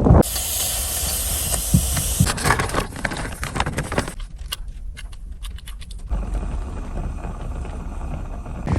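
Strong wind with a steady hiss, over several short shots cut together, with a quieter stretch in the middle that holds scattered clicks and light knocks.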